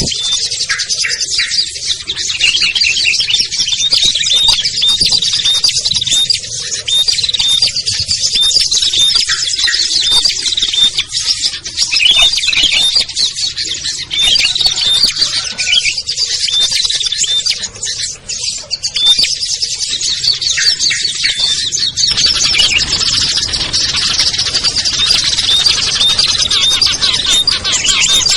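Many small songbirds chirping and calling at once in a dense, unbroken, agitated chatter, a mixed lure recording of small birds such as bulbuls and prinias. The chatter grows busier about three quarters of the way through.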